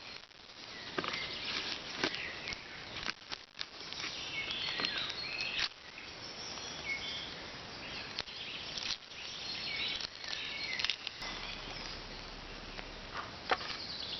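Knife cutting an onion, irregular clicks and knocks of the blade, with birds chirping in the background.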